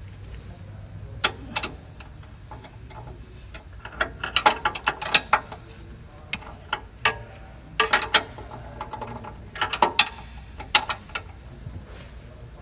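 Hand tools on metal clicking and clinking in irregular clusters, with quick runs of ratchet-like clicks, over a faint low steady hum.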